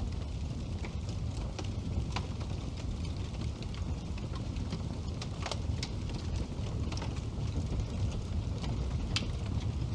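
Wood burning in a fireplace: a steady low rumble of flame with irregular sharp crackles and pops, a few of them louder than the rest.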